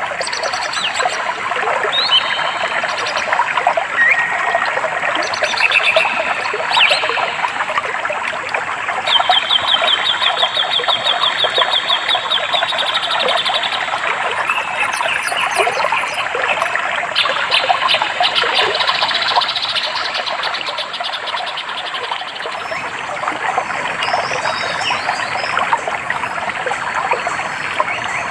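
Running stream water with birds calling over it. About ten seconds in, one bird gives a long, rapid trill of repeated high notes lasting several seconds, and shorter chirps come and go around it.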